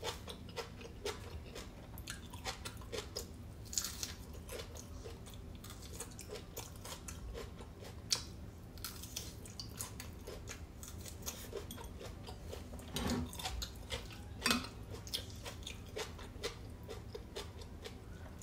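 Close-miked chewing of raw red bell pepper: many small crisp crunches and mouth clicks, with a few louder ones.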